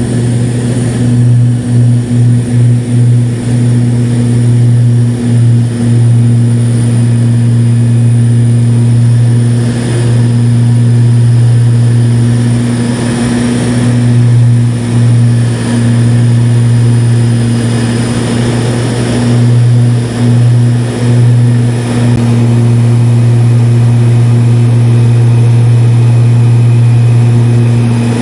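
Propeller airplane's engine and propeller droning steadily, loud as heard inside the cabin, dipping briefly in level several times.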